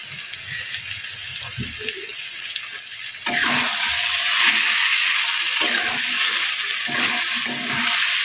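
Spinach and vegetables sizzling in oil in a steel kadai, a steady hiss that jumps louder about three seconds in, when a spatula starts stirring them with soft knocks. The sizzle comes from a nearly dry dish: the water has cooked off and the oil has separated at the sides.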